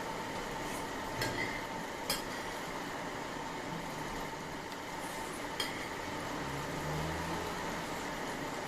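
A few light clinks of a spoon against a dish, over a steady background hum; a low hum swells briefly near the end.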